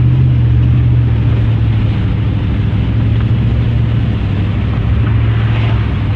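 A truck driving: a steady loud engine drone with road and wind rush.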